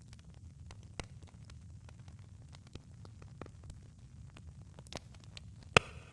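Campfire crackling: scattered sharp snaps and pops over a low, steady rumble of flame, with one louder pop near the end.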